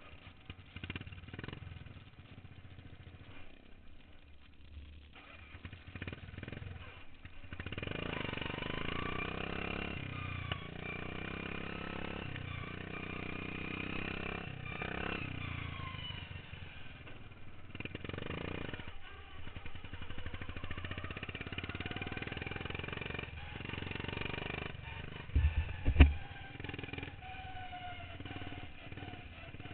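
Modified racing lawn mower engines running, quieter at first and then louder, with the pitch rising and falling as they rev. A single sharp loud knock comes near the end.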